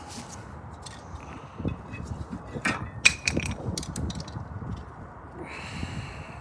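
Hand tools and metal brake parts clanking and clicking during rear brake pad and rotor work. A cluster of sharp metallic clinks with a short ring comes about halfway through, and a brief scrape near the end.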